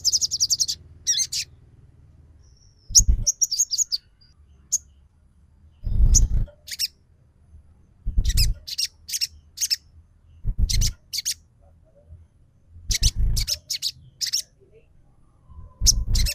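Sogon bird calls played as a lure recording: the same phrase repeats about every two and a half seconds, each a short low rumble followed by a quick series of sharp, high-pitched chirps.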